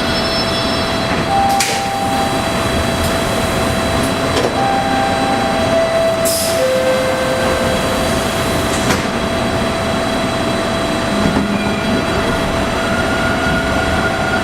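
Steady train noise heard inside a TTC Bombardier T1 subway car, with a few short tones and a brief sharp hiss about six seconds in.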